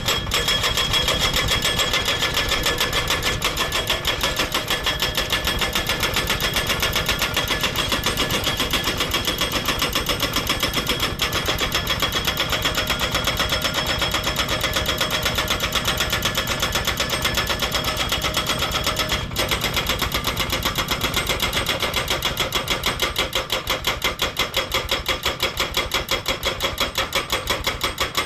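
Highway guardrail pile driver / ground hole drilling machine working, its hammer striking in a rapid, even rhythm of many blows a second, with a brief break about two-thirds of the way through.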